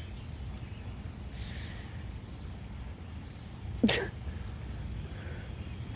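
Steady low background noise, with one short, sharp vocal sound about four seconds in, like a sneeze or a quick cough.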